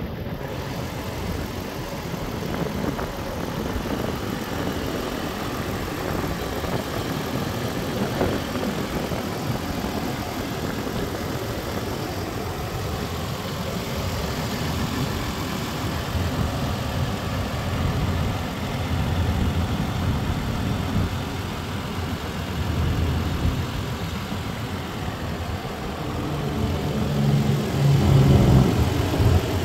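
A 2013 Toyota 4Runner's 4.0-litre V6 idling steadily, heard from beside the open engine bay, with a louder stretch near the end.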